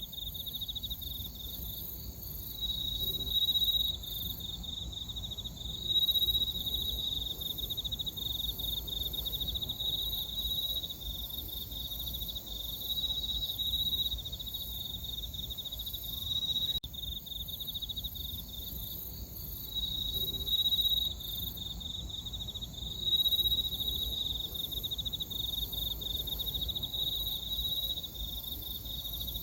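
Crickets chirping on an autumn night: a steady, fast-pulsing trill that swells louder every few seconds, over a fainter, higher-pitched insect buzz.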